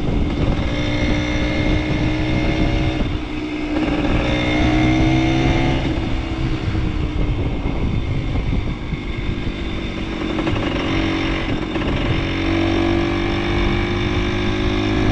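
Small single-cylinder vintage motorcycle engine running under way, its pitch climbing as it pulls and dropping back several times as it is shifted or throttled off.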